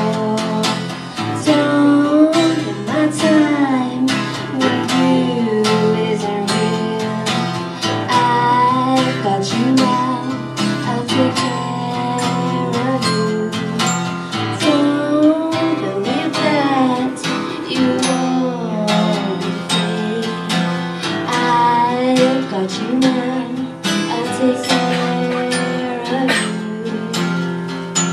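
Live band music: an acoustic guitar strummed steadily, with a wavering, sliding melody line over it.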